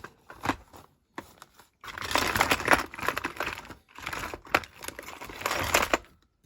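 Rummaging among things on a workbench, searching for a ruler: a few light clicks, then about four seconds of dense rustling and small clattering clicks.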